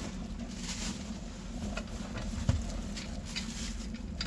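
Scattered knocks and clicks of metal drill parts and packaging being handled while unboxing a bench drill, with one louder thump about two and a half seconds in.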